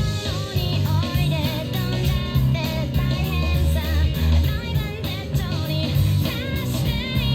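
Rock song with a singer, guitar and a heavy bass line, played through a Soundcore Boom 2 portable Bluetooth speaker at 30% volume on its Treble boost preset with bass-up. The music cuts off suddenly at the very end.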